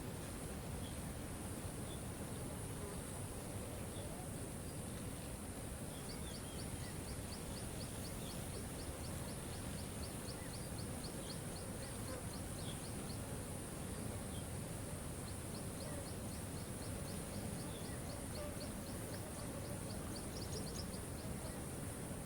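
Steady rush of falling water with an even high hiss above it. A run of quick, high ticks, about three or four a second, comes in about a quarter of the way in and again in the later half.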